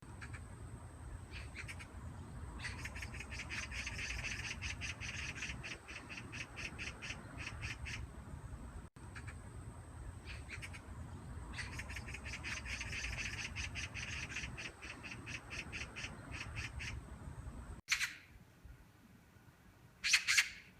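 Magpie giving its rapid, rattling chatter of harsh repeated notes in two long bouts. Near the end come two single harsh calls, the second louder.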